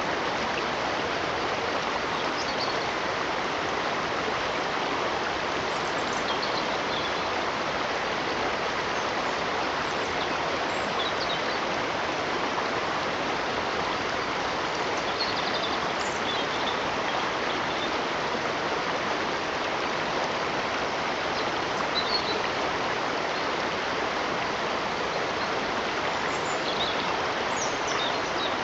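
Steady rushing of running water, like a stream, with faint short high chirps every few seconds.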